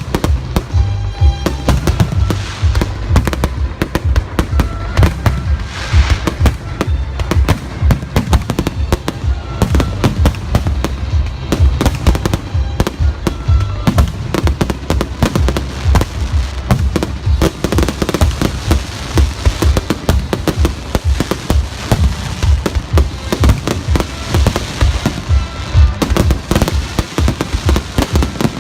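Fireworks display, shells bursting in a dense, rapid, irregular barrage with no let-up, over music with a heavy bass beat.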